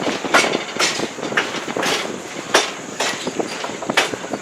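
Passenger coach of a steam train running along the track: a steady rumble broken by sharp, uneven clanks and clicks about twice a second from wheels, rail joints and car fittings.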